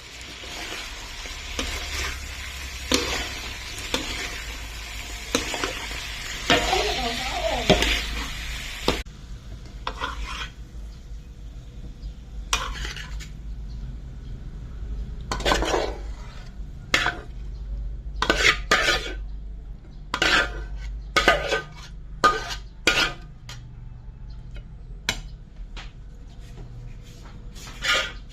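Chicken and bell peppers stir-frying in a pan: steady sizzling with a spatula scraping and knocking against the pan. About nine seconds in, the sizzle cuts off suddenly, and separate spatula scrapes and clinks on the pan continue over a low steady hum.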